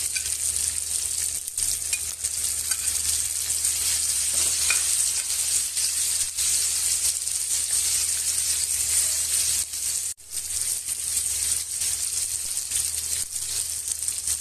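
Cubes of pork with minced garlic and onion frying in hot oil in a metal wok: a steady sizzle, stirred with a spatula. The sound drops out for an instant about ten seconds in.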